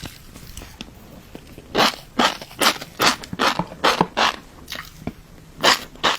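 Close-miked chewing of fish roe, a run of crisp crunches and pops about two or three a second after a quiet start, with another crunch near the end.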